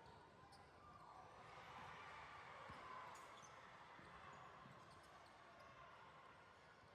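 Faint basketball bounces on a gym floor, a few scattered thuds over a low, steady background hum.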